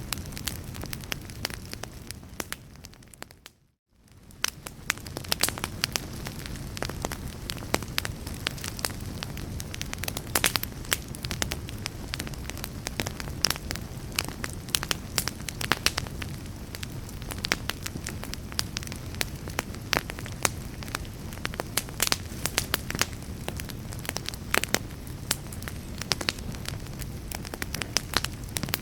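Wood fire in a fireplace crackling, with frequent sharp pops over a low, steady rush of flame. A little over three seconds in, the sound fades out to near silence for a moment, then returns.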